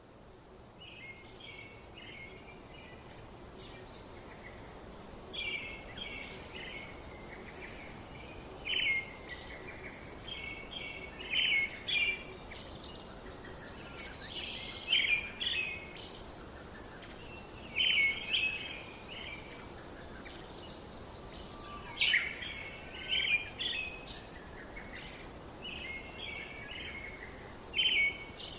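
Songbirds singing: short chirping phrases recurring every second or two, over a faint steady background hiss.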